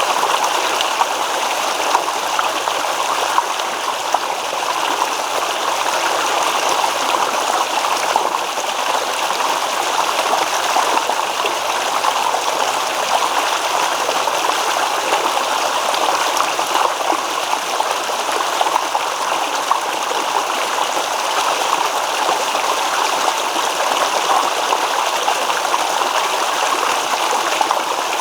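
A small stream babbling and trickling over stones, a steady rush of running water with fine gurgles through it.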